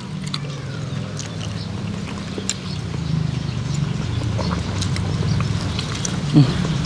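Chewing and small wet mouth clicks of people eating sticky rice dumplings, over a steady low engine-like rumble that slowly grows louder. A short hummed "mm" stands out near the end.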